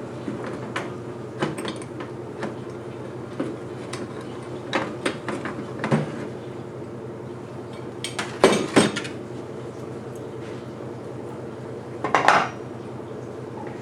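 Metal tools and parts clinking and clanking as they are handled, with a louder clatter about eight and a half seconds in and a short noisy burst about twelve seconds in, over a steady hum.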